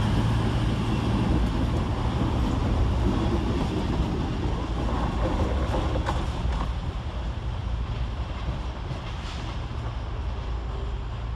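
Diesel train engine running steadily with a low hum, slowly fading, with a couple of light clicks about six seconds in.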